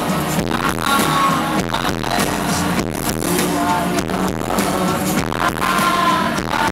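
Live pop band music: a male lead vocal singing over a steady drum beat.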